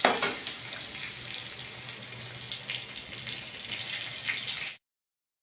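Stuffed okra sizzling as it fries in oil in an aluminium kadhai, with a metal spatula clinking against the pan at the start and a few light scrapes and ticks as it is stirred. The sound cuts off suddenly near the end.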